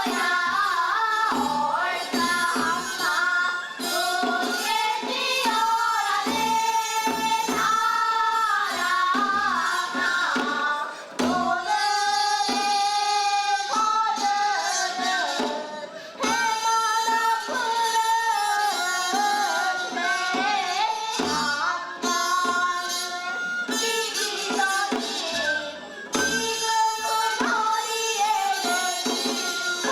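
Singers performing a Seodo sori Korean folk song (the taryeong repertoire of Korea's western provinces), with a drum beating the rhythm underneath.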